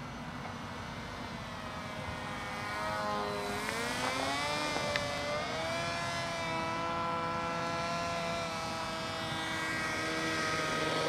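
Electric RC model aeroplane flying a low pass, its motor and propeller making a buzzing drone that gets louder. The pitch dips and comes back up about four seconds in. The propeller is broken, which the flyers say makes the model louder and rougher, like a two-stroke microlight.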